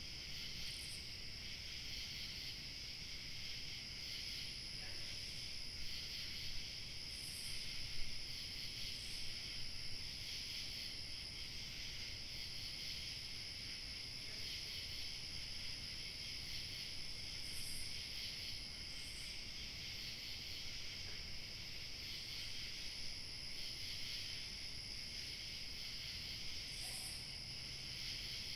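Evening chorus of crickets chirping steadily in a continuous high-pitched band, with a fainter, higher insect call that comes and goes every few seconds. Light wind adds a low hiss underneath.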